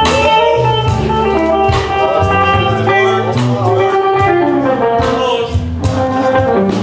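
Live blues band playing an instrumental passage, with a lead guitar playing bending notes over bass and drums.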